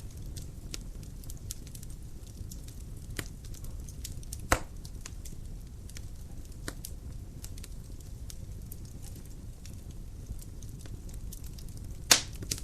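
Dry firewood burning in a fireplace: a steady low rumble of flame under constant small crackles, with two loud sharp pops, one about four and a half seconds in and a louder one near the end.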